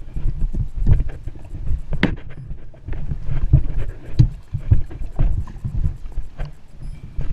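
Rowing a small boat: oars splashing and knocking at irregular intervals, with wind buffeting the microphone as a low rumble.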